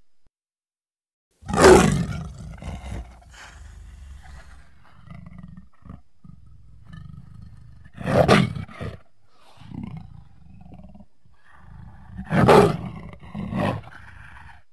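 Film sound-effect lion roars: three loud, full-throated roars, about a second and a half in, around eight seconds in and about twelve and a half seconds in, each trailing into shorter, weaker calls, with a quieter low rumble in between.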